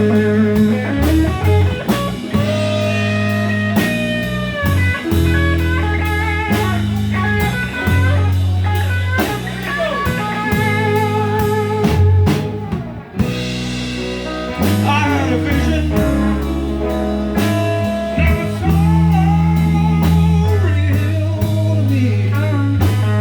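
Blues-rock instrumental break: a lead electric guitar solo with bent, wavering notes over bass guitar and a drum kit keeping a steady beat.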